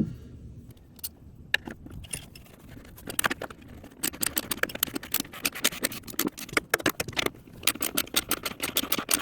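Hand ratchet clicking and metal tools rattling as the new ignition coil's two 10 mm bolts are tightened. A few scattered clicks come first, then a dense run of quick, irregular clicks from about four seconds in.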